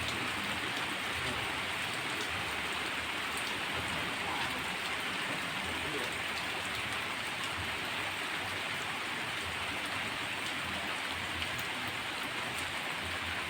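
Heavy rain falling steadily, a dense even hiss with scattered drop ticks on hard surfaces.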